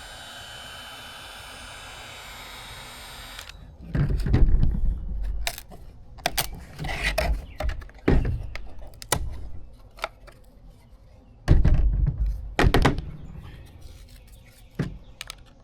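A heat gun blows steadily, then cuts off suddenly about three and a half seconds in. It is followed by a string of irregular knocks and thunks from the plastic tail light housing and lens being handled and pried apart, the lens coming free once the glue is softened.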